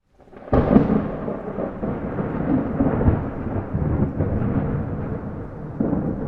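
Thunder during a rainstorm: a sudden loud crack about half a second in, then a long rolling rumble that slowly fades.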